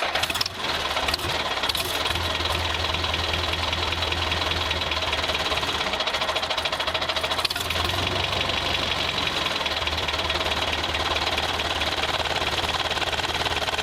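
Small electric motor of a remote-control toy running steadily with a fast, fine flutter.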